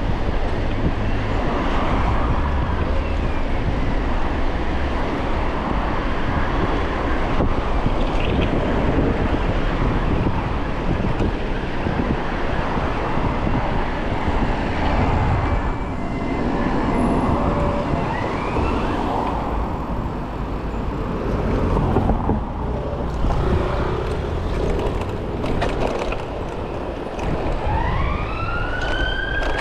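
Steady traffic noise and wind rushing over a chest-mounted camera microphone on a moving bicycle. Near the end an emergency-vehicle siren starts up, its wail rising and then falling in pitch.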